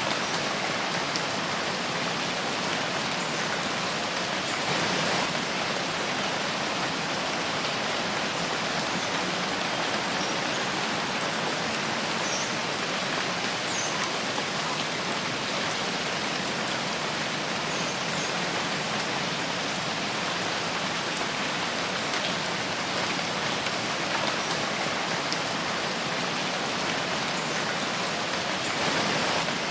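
Steady rain falling in a forest, a dense even hiss of drops with scattered faint ticks and a slight swell about five seconds in and again near the end.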